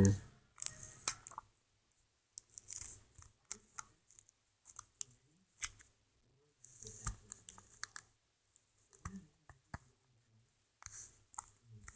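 Clear Scotch tape being pulled, torn and pressed down while taping up a firework shell: short, irregular rasps and clicks with quiet gaps between them.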